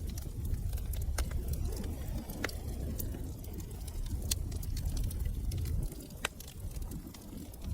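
Wood fire crackling in a fireplace: scattered sharp pops and snaps over a low rumble of burning, the rumble dropping away about six seconds in.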